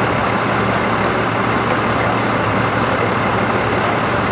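Fire truck engine running steadily: a constant low hum under an even hiss.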